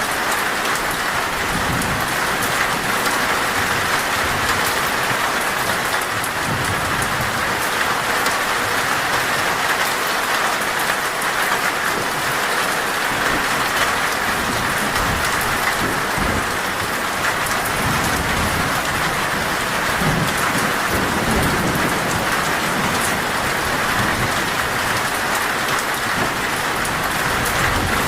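Heavy rain falling steadily on a metal roof, with low thunder rumbling at times, most strongly in the middle.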